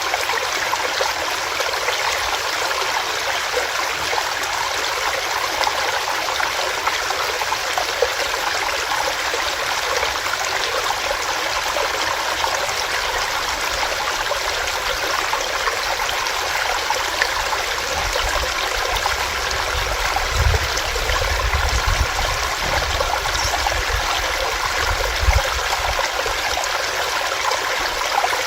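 Small stream running over rocks: a steady, even rush of flowing water.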